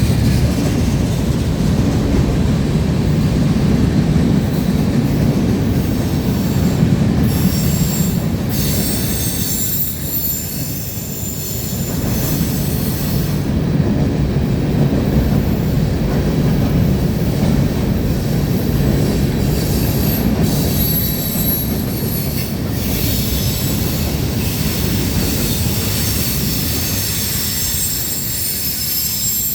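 Freight train cars rolling past with a steady heavy rumble, steel wheels squealing high and thin on and off.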